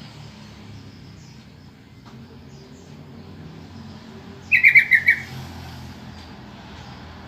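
Yellow-vented bulbul (trucukan) giving one short, loud call of about six quick notes, a little past the middle, over a steady low hum and faint high chirps.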